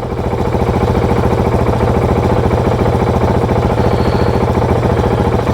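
Motorcycle engine idling steadily, a rapid even pulsing over a constant low hum.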